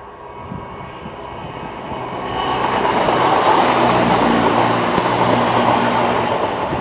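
Class 170 Turbostar diesel multiple unit passing close at speed: wheel-and-rail noise and the steady note of its underfloor diesel engines build from about two seconds in, are loudest in the middle, then ease off as the carriages go by.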